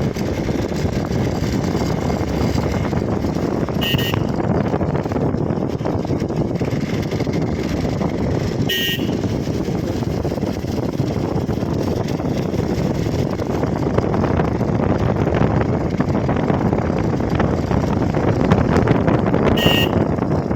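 Motorcycle running on the road, a steady mix of engine and wind noise, with a vehicle horn giving three short toots: about four seconds in, again about five seconds later, and once more near the end.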